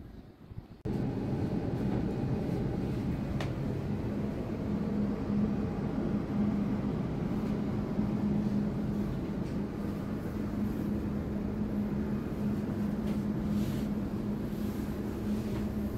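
Electric passenger train heard from inside the carriage: a steady running rumble with a low, even hum. It cuts in abruptly about a second in.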